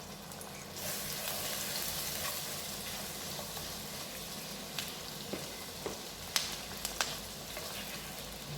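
Chopped garlic sizzling in melted butter in a hot pan, the sizzle growing louder about a second in. A few sharp taps of a stirring spoon on the pan come near the end.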